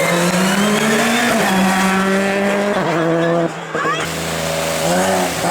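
Competition car's engine running hard at high revs, its note stepping down in pitch twice as it works through the gears. About three and a half seconds in the engine briefly goes off the throttle and quieter, then picks up again, with some tyre squeal.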